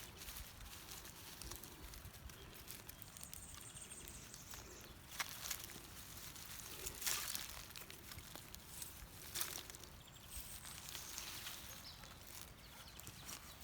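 Hoe working in field soil to dig out plants: a few soft scrapes and thuds about five, seven and nine seconds in, over quiet outdoor ambience.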